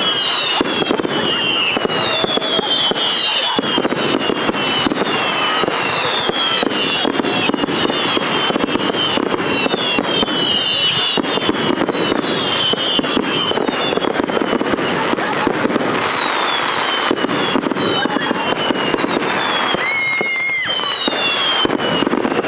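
Fireworks display: continuous crackling and popping, with many overlapping whistles that each fall in pitch.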